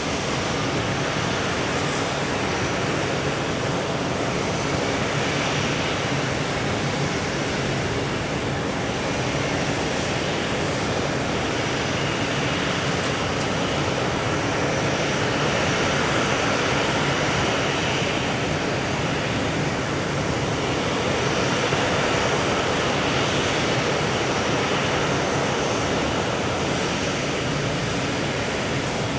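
Pratt & Whitney PW4074 turbofans of a Boeing 777-200 running, a steady rushing jet noise with faint high tones above it that holds level throughout.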